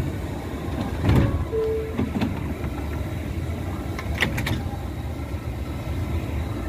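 R188 subway train standing at the station with a steady low rumble. About a second in there is a thump and a short chime tone, and a few sharp clicks come a little past four seconds.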